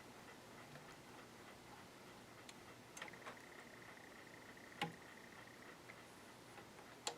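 Faint mechanical ticks from a Janome ME4014 sewing machine's internal mechanism as a part moves over and clicks back into its locked position, with one sharper click about five seconds in. A faint steady high whine fades out shortly after that click.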